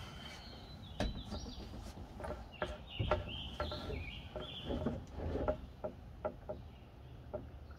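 Bird calls: short high chirping phrases, heard in the first second or so and again for a stretch in the middle. Scattered clicks and knocks are mixed in.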